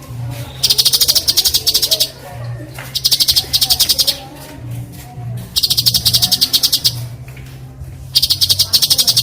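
Cucak cungko giving harsh, rasping besetan calls: four rapid, dry rattles of about a second and a half each, separated by short gaps, with fainter chirps between them. A low steady hum runs underneath.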